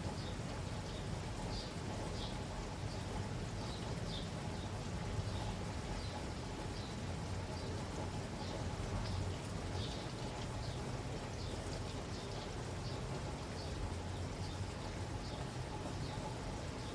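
Steady rain falling, with a low rumble underneath. Short high chirps recur every second or so throughout.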